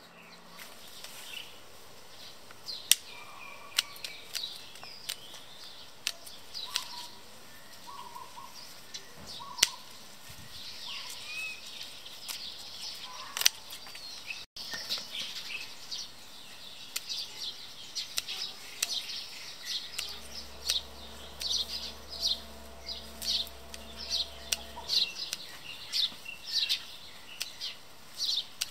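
Birds chirping, with many short high calls that come thick and regular in the second half, and a few sharp clicks scattered through. A low steady hum with a pulsing tone joins for about five seconds about two-thirds of the way in.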